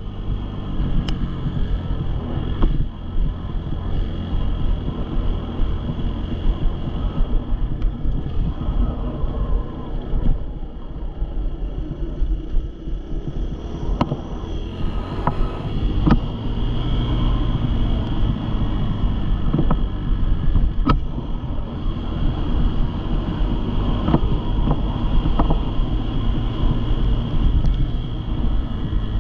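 Dirt bike engine running steadily at low revs, with wind on the microphone and a few sharp clicks or knocks.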